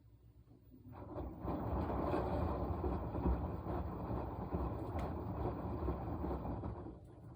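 Washing machine in its wash cycle: the drum turns with a churning rumble that starts about a second in, runs for about six seconds, then stops.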